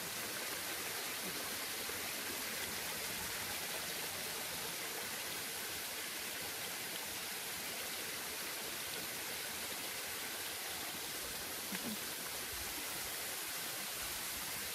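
Steady rushing and splashing of a small waterfall and its stream, running low in the dry season.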